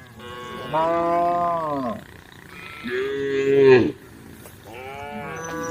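Cows mooing: three long moos, each rising and then falling in pitch. The second, in the middle, is the loudest, and the third begins near the end.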